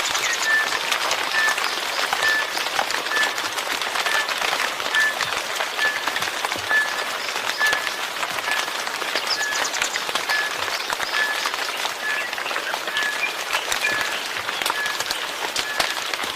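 Steady rain falling, a dense hiss of many small drop impacts. Through it runs a short high chirp, repeating evenly about once a second.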